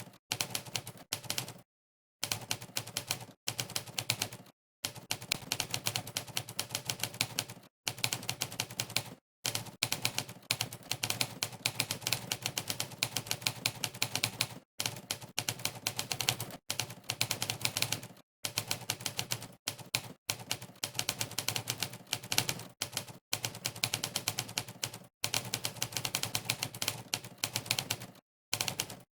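Typewriter keystroke sound effect from the Monkeytype typing site, one clack per key typed. It goes in rapid runs of several clacks a second, broken by short pauses of complete silence.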